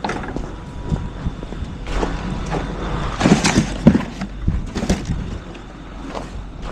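Garbage truck running with a steady low rumble, with a cluster of irregular knocks and rattles about two to five seconds in.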